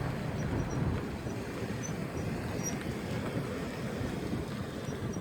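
Vehicle rolling with a steady low road rumble, with faint, short high-pitched brake squeaks now and then from a bad brake pad and rotor.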